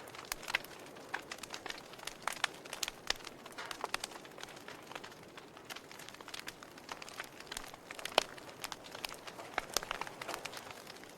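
Fire crackling: irregular sharp pops and snaps over a soft hiss, the loudest pop about eight seconds in.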